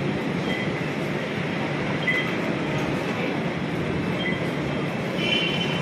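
Light-rail (LRT) train running through the station, a steady rumbling noise with brief high tones now and then.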